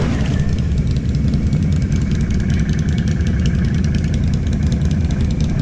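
ATV engine idling steadily: a low, even rumble.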